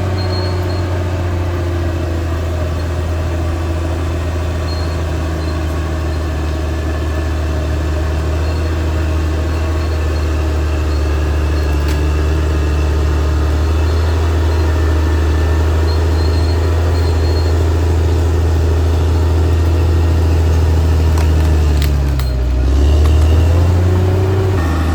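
Caterpillar D6R XL bulldozer's diesel engine running steadily at working revs. About 22 seconds in, the engine note dips and then climbs back up.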